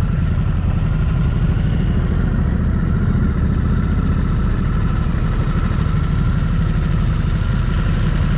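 Motorcycle engine running steadily at low speed, with no revving.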